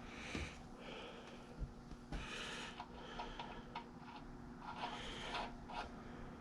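Metal hand tools being handled while a socket is tried on a bolt: short scraping rattles and a few light clicks.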